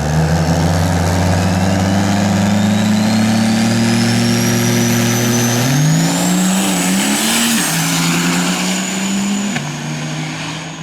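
Diesel drag-racing truck running hard down the track, its engine note strong and steady with a high turbocharger whine rising steadily over about six seconds. The engine pitch then jumps and wavers, drops about eight seconds in, and the sound fades near the end.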